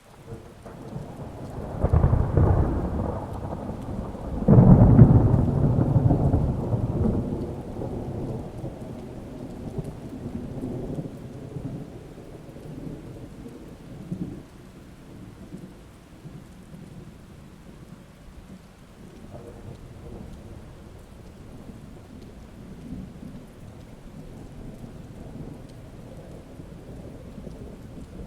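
A thunderstorm with steady rain. A thunderclap comes about two seconds in and a louder one about four and a half seconds in, then the thunder rumbles away over several seconds, leaving the rain.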